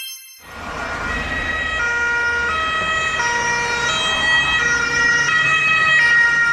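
Ambulance siren sounding in a two-tone hi-lo pattern, stepping between two pitches about every three-quarters of a second, over a low engine rumble. It starts out of silence about half a second in.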